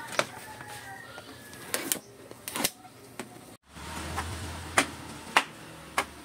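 Tools and metal engine parts clinking and knocking in a workshop: a handful of sharp knocks at uneven intervals, coming about every half-second in the second half. About halfway the sound cuts off briefly, and a low hum then runs under the knocks.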